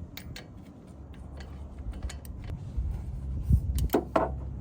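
Socket wrench clicking as the 19 mm caliper bolts on a Chevrolet Silverado 1500 front brake caliper are tightened: scattered small metallic clicks over a low rumble, with a few sharper clicks a little before the end.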